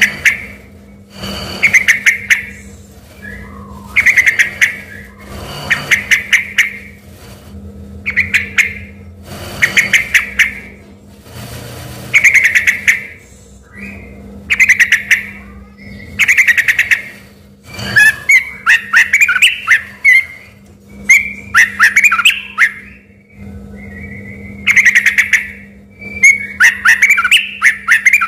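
Yellow-vented bulbul (trucukan) singing vigorously. It repeats short, loud bursts of quick chattering notes about every two seconds, and from about two-thirds of the way in these become longer, more varied warbled phrases, the kind of song taken for a white-rumped shama's. A steady low hum runs underneath.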